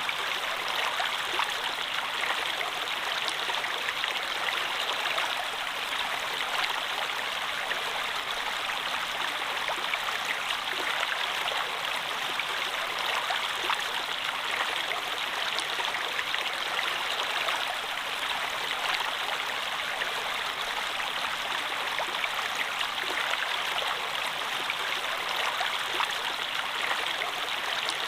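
A stream of water flowing steadily: a continuous babbling rush with small splashes and droplet ticks through it.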